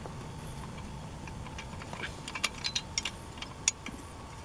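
Small metallic clicks and clinks of a hand wrench working on the cylinder screws of a Husqvarna 61 chainsaw engine, irregular and thickest in the second half.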